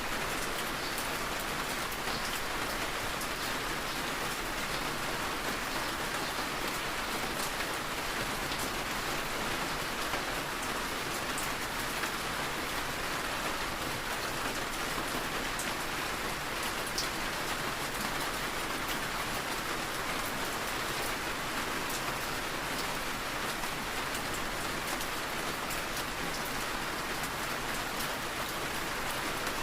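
Steady rain falling, an even patter with scattered drops ticking.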